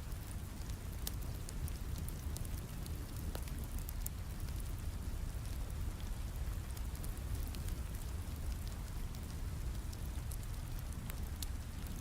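Steady rain falling with a low rumble, mixed with a fireplace crackling in many small pops and snaps.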